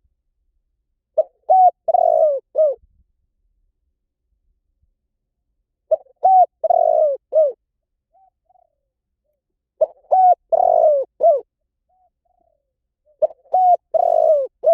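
Spotted dove cooing: a short phrase of several low, rolling coos, repeated about every four seconds, four times.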